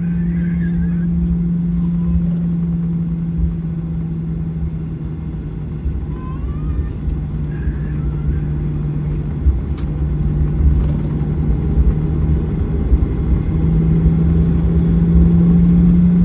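Cabin sound of a Boeing 737-900ER on the ground: its CFM56-7B jet engines running with a steady low hum over a rumble, growing somewhat louder in the second half.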